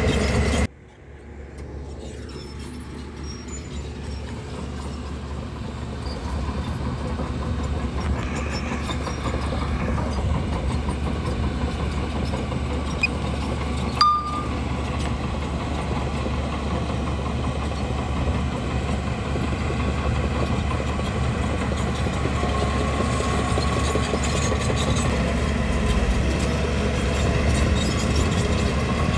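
Bulldozer engine running steadily under load with the clatter of machinery. The sound drops out abruptly less than a second in, builds back up over the next few seconds, and has one short sharp click about halfway through.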